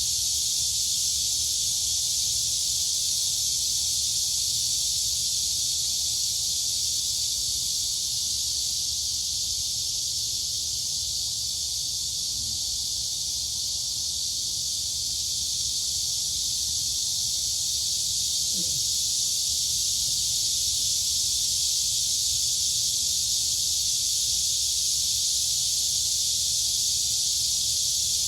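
Dense chorus of crickets and cicadas, a steady unbroken high-pitched shrill.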